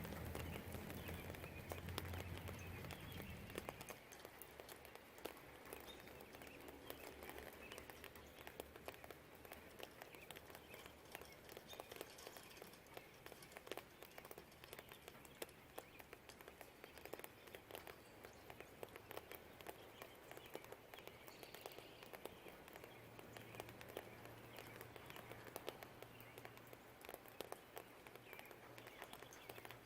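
Light rain dripping and pattering in many small irregular ticks under a soft hiss, with faint birdsong. A low rumble fades away about four seconds in.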